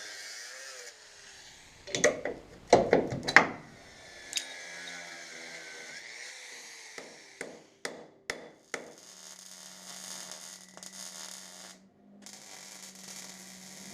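Hand tools knocking and clicking against the car's front suspension parts: a cluster of loud sharp knocks a couple of seconds in, a run of quick clicks later, then a steady low hum.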